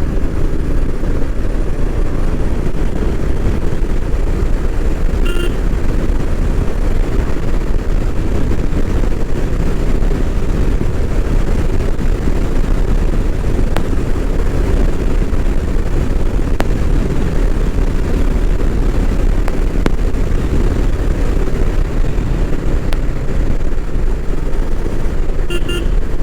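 Royal Enfield Meteor 350 motorcycle riding at road speed, its single-cylinder engine under heavy wind rush on the microphone. A vehicle horn toots briefly about five seconds in and again near the end.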